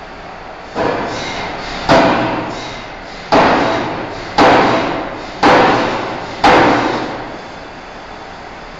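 Forging hammer striking a steel bar six times, about one blow a second, each blow ringing and fading, over a steady background rumble.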